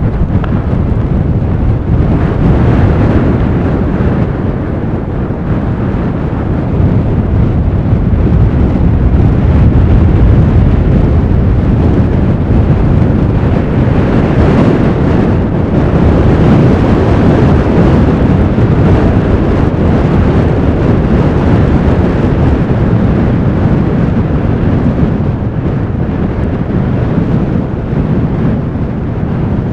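Strong blizzard wind blowing across the microphone: a loud, low rushing that swells and eases in slow gusts.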